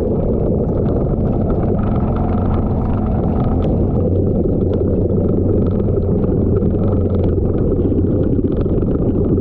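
Off-road vehicle driving a muddy trail: a steady low engine rumble under a dense, rough noise.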